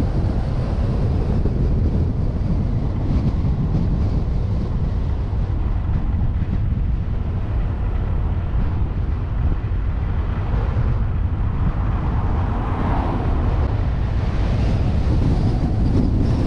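Wind buffeting the microphone of a suction-cup-mounted action camera on a moving vehicle, a steady low rumble with road and engine noise underneath.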